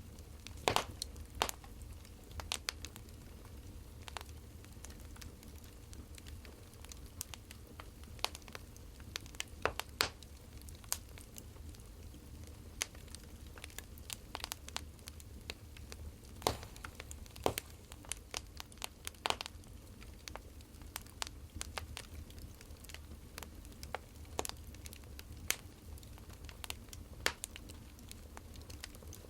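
Firewood burning in a fire, crackling with irregular sharp pops over a low steady hum.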